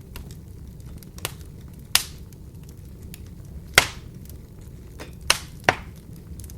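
Wood fire burning in an open fireplace: a steady low rumble with a scatter of small crackles and about five sharp pops from the burning wood, the loudest a little under four seconds in.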